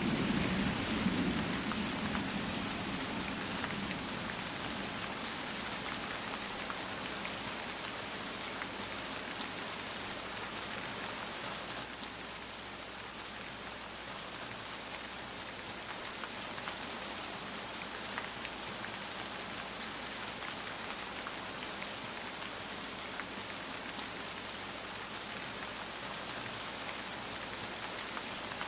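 Steady rain falling, a dense patter of drops with a low rumble of thunder dying away in the first few seconds.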